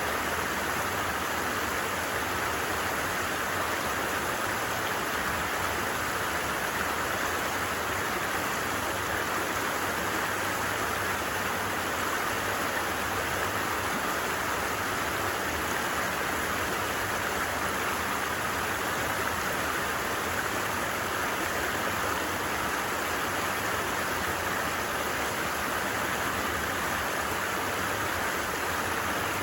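A flowing stream, an even, unbroken rush of water.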